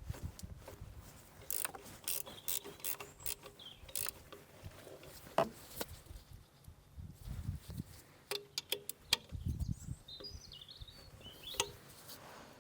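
Hand tools clicking on metal in short irregular runs, with a few dull knocks, as the alternator mounting bolt is tightened to tension the fan belt.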